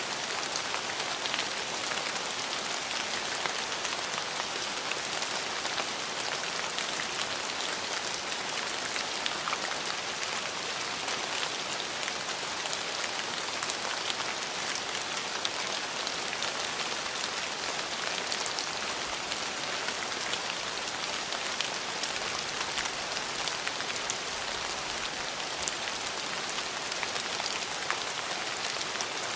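Steady rain falling, a dense hiss with many small drop ticks, even in strength.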